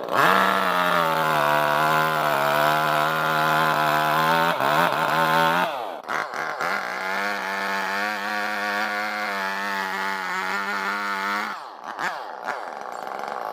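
62cc two-stroke petrol chainsaw engine revved to high speed and held for about five seconds, dropping back, then revved up and held again for about five seconds before falling off, with a couple of short blips near the end.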